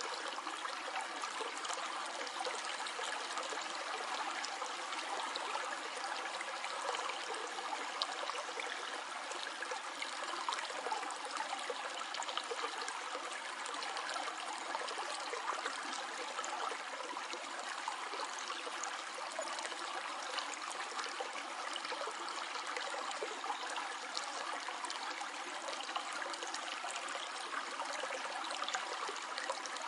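Small stream flowing steadily over stones, a continuous babbling and trickling of water.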